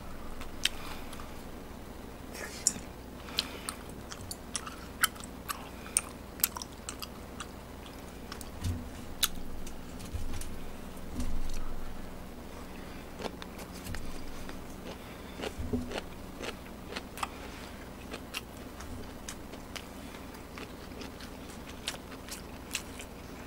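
A man chewing Korean snack food (tteokbokki, kimbap, bibimbap) close to the microphone, with frequent sharp little clicks and a few soft knocks.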